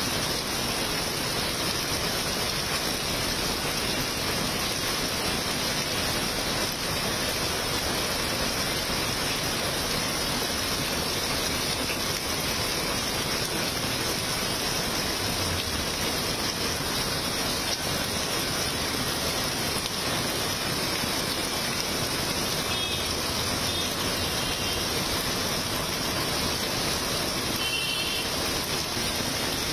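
Heavy rain pouring steadily onto a waterlogged road, an even hiss with no letup.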